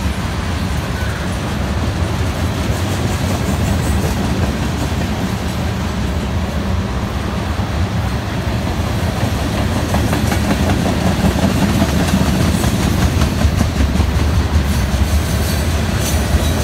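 Freight train of tank cars and boxcars rolling past: a steady rumble of steel wheels on the rails with a running clatter from the wheels, getting a little louder in the second half.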